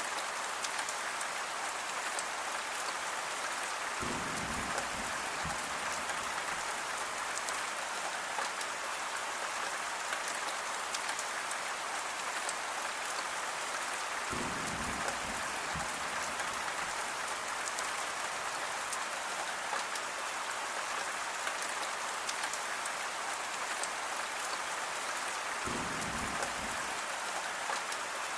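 Steady, even rainfall. A brief low rumble comes in three times, at roughly ten-second intervals.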